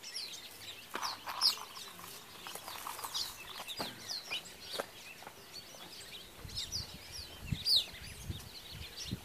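Several birds calling at once: many short, high chirps and quick downward-sliding whistles overlapping, with a few lower calls in the first few seconds. A low rumble joins in the last few seconds.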